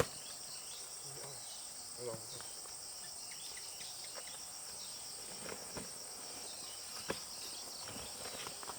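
Steady high-pitched chorus of insects, with a few faint knocks.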